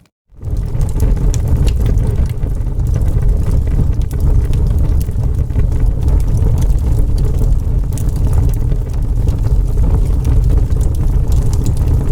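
Wood fire burning in a fireplace: a steady low roar with scattered sharp crackles, after a brief drop-out to silence at the very start.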